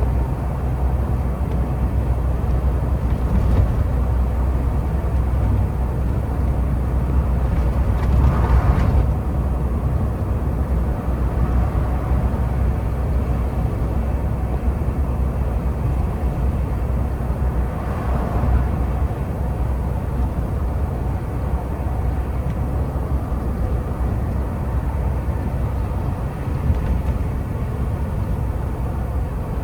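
Steady low rumble of a CNG semi truck under way, engine and road noise, with two brief swells of hiss, one about eight seconds in and another about ten seconds later.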